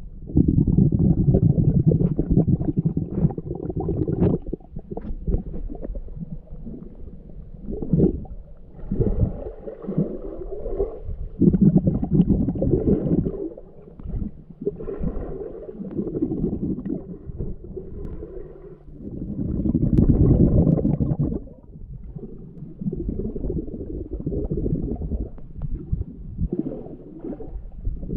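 Muffled underwater sound picked up by a GoPro in its housing: water swirling and bubbling as a swimmer moves through a pool. It comes in irregular loud swells, with quieter stretches between them.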